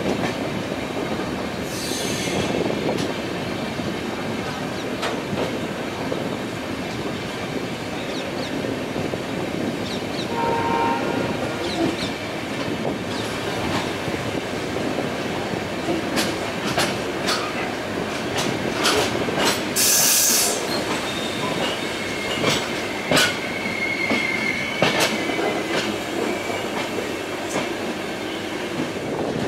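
A double-decker express train of stainless steel LHB coaches running through a station yard, heard from on board with a steady rolling rumble. From about thirteen seconds on, sharp clacks come as the wheels cross rail joints and points. A brief train horn sounds about ten seconds in, and a short hiss comes about twenty seconds in.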